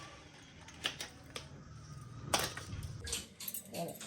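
Light metal parts and tools clicking and clattering, several sharp knocks with the loudest about two seconds in, over a low hum that fades out near the three-second mark.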